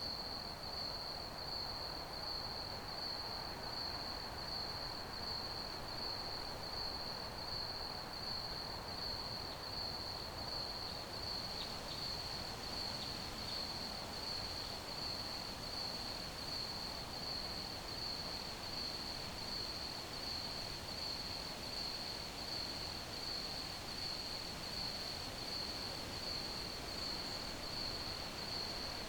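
Crickets chirping in a steady, even pulse at one high pitch, over a soft background hiss.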